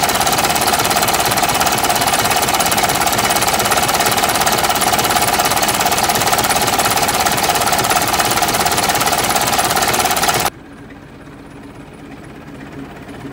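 Massey Ferguson 65 four-cylinder tractor engine running steadily, heard close up. About ten seconds in, the sound cuts off suddenly and a much quieter sound follows.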